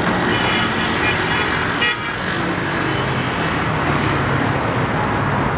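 Steady road traffic noise, with a car horn sounding briefly near the start.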